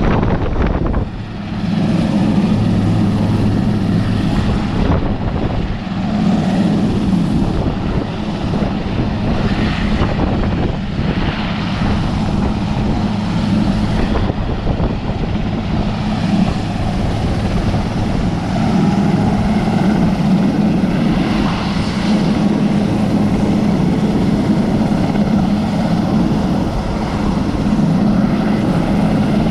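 Sikorsky S-61 helicopter in flight, its main rotor and twin turbine engines giving a loud, steady drone with a low hum that wavers slightly as it moves.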